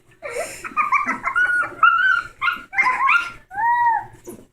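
Puppies yipping and whining in play, in a run of short high-pitched calls that often overlap, ending in one longer arching whine.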